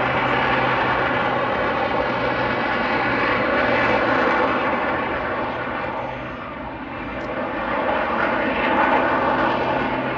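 Aerobatic display aircraft's engines running at high power as it flies its routine, a steady loud drone that dips about six seconds in and swells again, as when it powers away from a prop hang.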